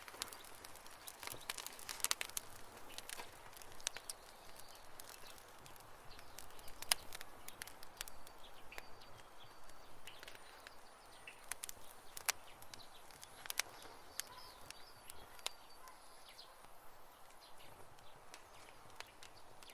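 Wood campfire crackling, with irregular sharp pops and snaps over a soft steady hiss of burning; the pops are thickest in the first few seconds and then come more sparsely.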